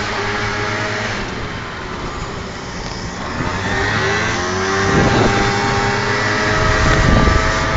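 Motorcycle engines running, their pitch gliding up and down with the throttle.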